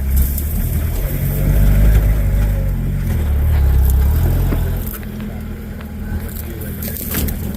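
4x4's engine running under load off-road, louder for the first few seconds and then easing off about five seconds in, with a few sharp clatters near the end.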